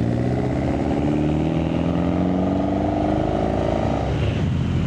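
A car engine accelerating as it drives off, its pitch rising steadily for about four seconds before falling away near the end.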